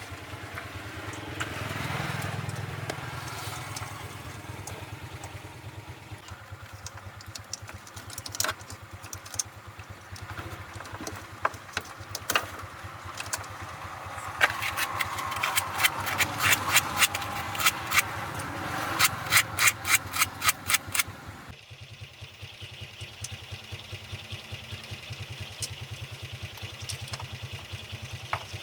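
An engine running steadily at idle, with a series of sharp metallic taps and clicks over it, thickest in the middle, and a sudden change in the background near the end.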